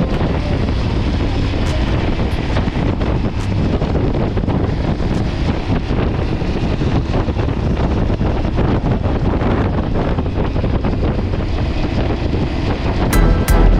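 Wind rushing over the camera microphone while riding, with the Aprilia Tuareg 660's parallel-twin engine running steadily underneath.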